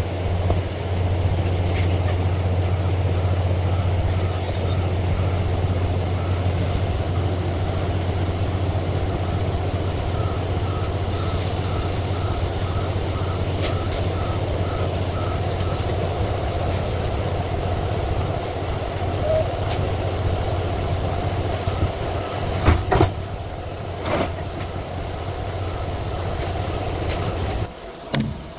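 Semi-truck's diesel engine running steadily, with a run of quick, evenly spaced high beeps partway through and a couple of sharp knocks late on. The engine hum drops away suddenly near the end.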